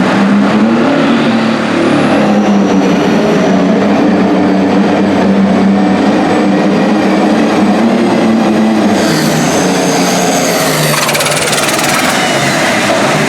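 Light-limited super stock pulling tractor's diesel engine running hard and loud under full throttle, steady throughout, with a high whine joining about nine seconds in.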